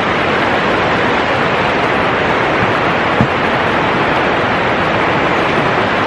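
Waterfall water rushing over rock, a steady, loud, even wash of noise, with one brief low thud about halfway through.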